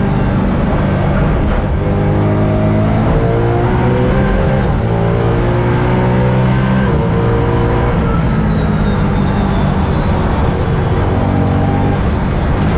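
BMW M3 race car engine, tuned to about 500 horsepower, running hard under load on track. It revs up and its pitch climbs, then drops back at each gear change.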